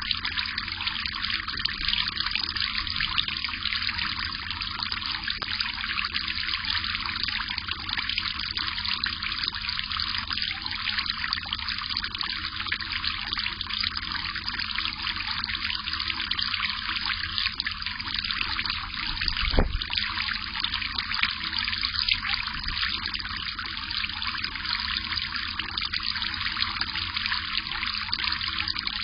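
Steady trickle of water, an even hiss with no pauses. A single low thump about two-thirds of the way through.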